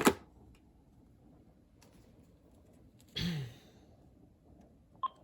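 Two sharp clicks of a plastic cordless phone handset being handled at the start, then a man's short sigh, falling in pitch, about three seconds in, and a brief high blip near the end.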